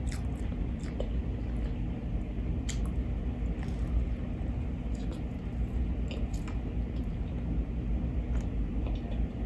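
Close-up eating of a fried chicken sandwich: a bite into the breaded chicken and bun, then chewing, with wet mouth sounds and scattered crisp crunches over a steady low rumble.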